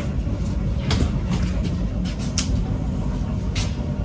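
Low, steady rumble inside a passenger train as it comes in to stop, with three sharp clunks about a second apart.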